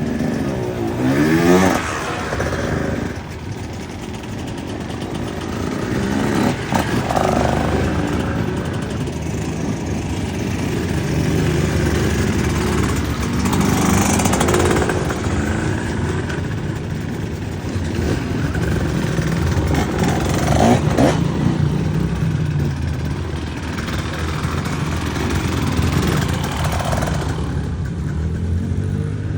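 Dirt bike engine running and revving, with a rising rev about a second in and several louder swells as the throttle opens and closes.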